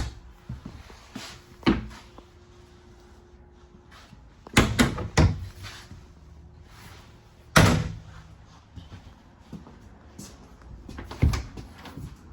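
Travel-trailer cabinet doors being opened and shut, a series of knocks and bangs with a small cluster about halfway through and the loudest bang a little after that.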